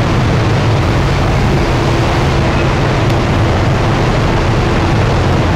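Engine of a river sightseeing boat under way: a steady low hum over an even rushing noise.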